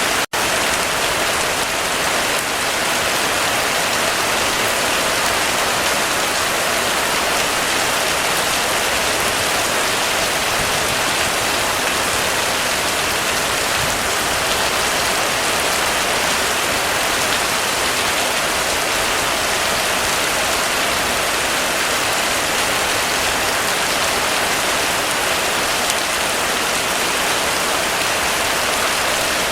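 Heavy rain falling steadily in an unbroken hiss, with a momentary dropout just after the start.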